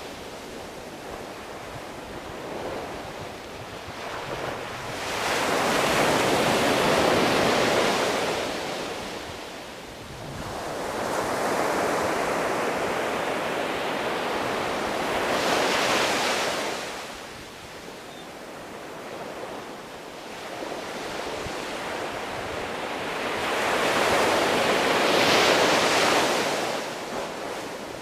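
Sea waves breaking and washing up the shore, three surges of surf, each swelling and then ebbing away.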